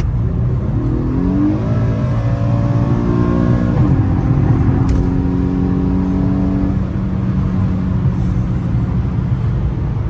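Infiniti G37 sedan's 3.7-litre V6, still on its stock mufflers, pulling under hard acceleration: the revs climb for about three seconds, drop sharply with an upshift about four seconds in, then the engine holds a steady pitch as the car cruises.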